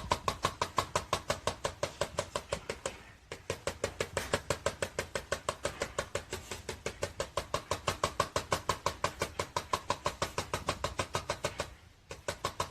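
Rapid, even knocking or tapping, about seven sharp knocks a second, stopping briefly twice.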